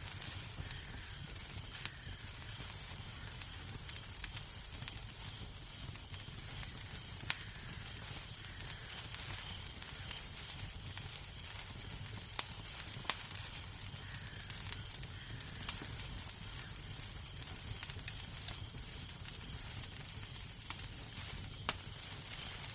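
Wood fire crackling in a fireplace: a steady low rumble and hiss of burning, with sharp, scattered pops every second or few.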